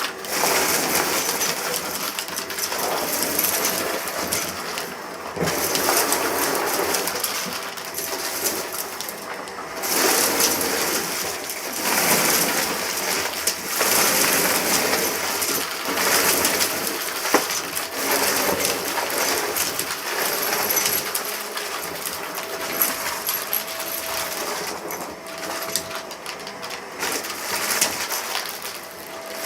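Vacuum cleaner running over a rug, its sound swelling and fading with each pass, with bits of debris crackling and rattling as they are sucked up.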